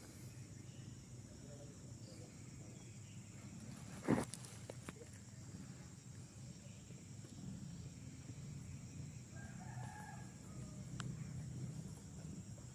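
A rooster crowing faintly once, about ten seconds in. A single sharp knock about four seconds in is the loudest sound.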